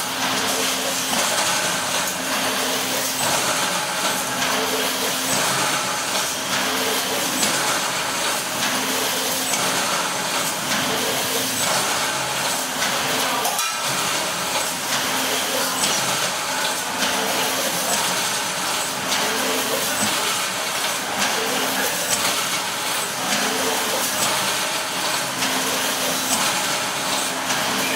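Granule packaging machine running continuously: a steady dense mechanical hiss with a faint intermittent hum and small high clicks.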